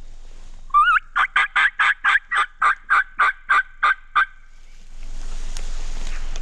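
A hunter's game call sounded close by: a short wavering note, then a fast, even series of about a dozen loud notes at roughly four a second, lasting about three seconds. Near the end a steady rushing noise comes up.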